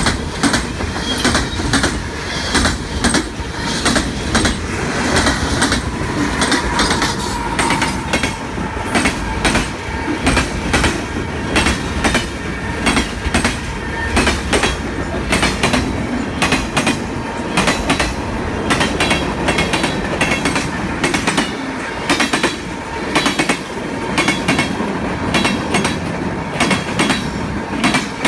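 Freight cars of a long train rolling past close by, their wheels clacking steadily over the rail joints. A faint high wheel squeal runs through the first seven seconds or so.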